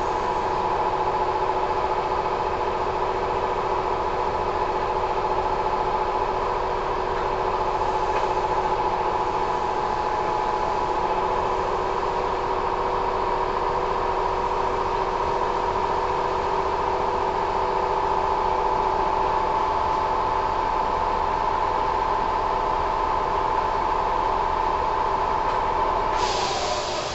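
Kintetsu 1000 series electric train standing at a station, heard from inside: a steady hum of its onboard equipment made of several held tones. Near the end a hiss starts and the tones slide down in pitch.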